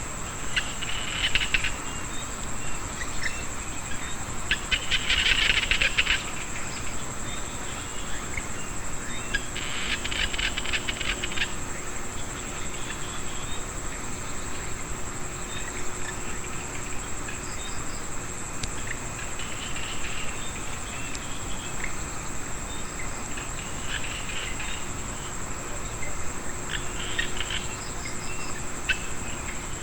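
Small frogs chorusing in a wet rice field after rain. Short bouts of rapid, clicking pulsed croaks come and go several times over a continuous high-pitched insect trill.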